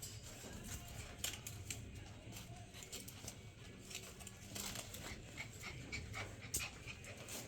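Six-week-old border collie puppies playing and panting, with scattered sharp clicks and scrapes from claws and chewed toys and a few short high squeaks about five to six and a half seconds in.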